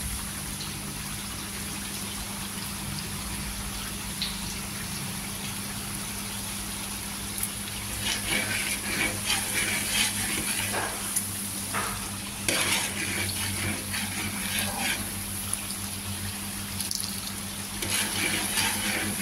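Ground chilli and shallot paste sizzling in oil in a wok, with a steady low hum underneath. From about eight seconds in, a metal spatula scrapes and stirs through it in repeated short strokes.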